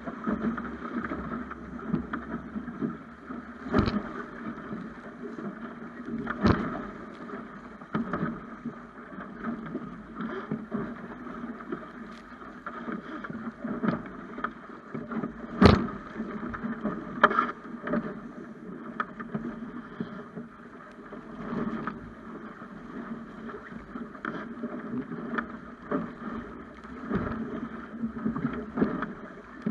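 Water rushing and splashing along a Snipe sailing dinghy's hull under way, with sharp knocks every few seconds; the loudest comes about halfway through.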